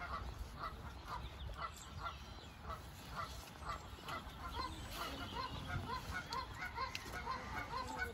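A bird, goose-like, honking over and over in short calls, about two or three a second, with a steady low rumble underneath.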